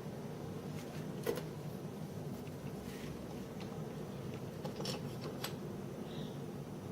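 A steady low hum with a few light clicks and knocks, the sharpest about a second in and two more near the end.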